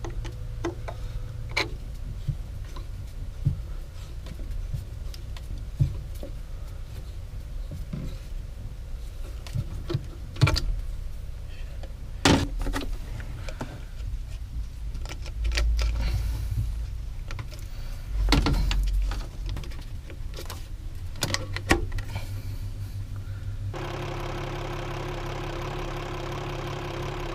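Lehman 120 marine diesel running at idle, a steady low hum with scattered knocks and clicks over it, as the newly impellered raw water pump is tested. About three-quarters of the way through, the sound changes to a steadier, fuller engine hum.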